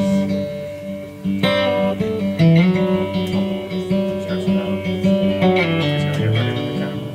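Live acoustic guitar playing a slow instrumental Americana tune, with picked notes ringing over long sustained low notes. A new run of plucked notes comes in about a second and a half in.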